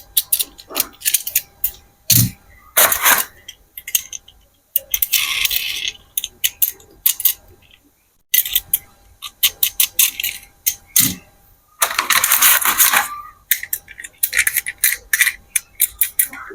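Small hard plastic toys being handled, with rapid clicks and rattles throughout and a few longer rustling bursts, the longest about two-thirds of the way in.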